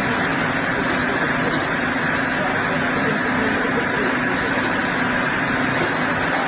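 Chainsaw engine running steadily at full throttle at an even pitch while ripping lengthwise through a log in a chainsaw mill.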